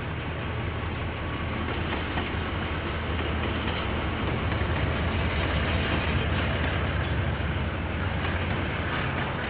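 KiwiRail train passing on the track: a steady rumble with a low engine hum, growing louder over the first half and easing slightly near the end, heard through a security camera's microphone.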